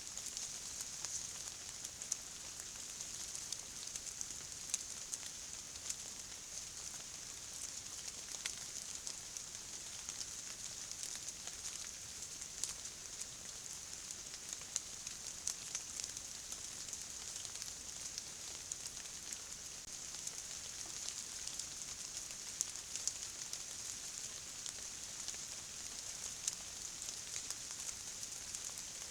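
Steady rain falling: an even high hiss with many small drop ticks scattered through it.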